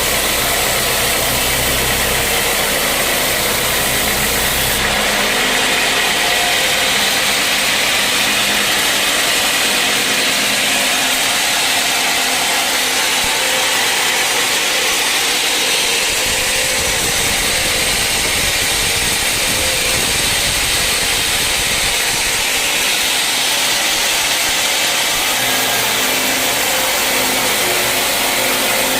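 Sawmill machinery running with a loud, steady whir and a low motor hum. The hum drops away about five seconds in and returns near the end.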